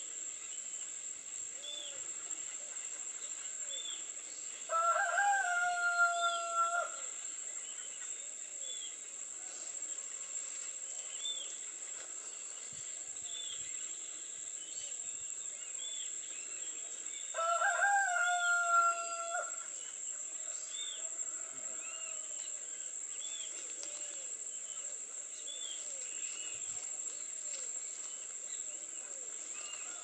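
A bird's long call, given twice about twelve seconds apart, each lasting about two seconds with a quick rise and then a held pitch, over a steady high insect drone.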